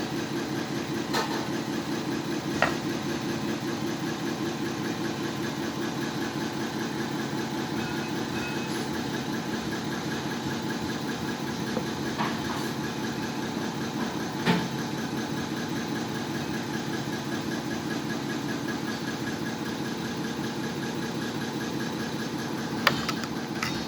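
A machine runs steadily with a fast, even pulsing hum, broken by a few short sharp knocks.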